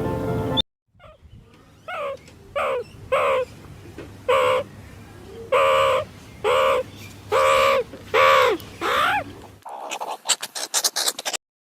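A bird calls nine times, each a short call that rises and falls in pitch, spaced about a second apart. It ends with a quick rattling run of clicks. Music cuts off just before the calls begin.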